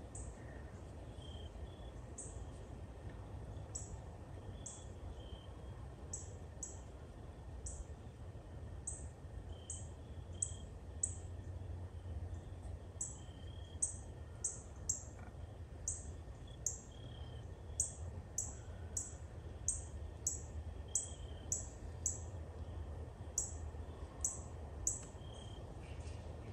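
Small birds calling in the woods: short, high chirps, about one a second at first and coming faster in the second half, with softer, lower notes between them, over a steady low rumble.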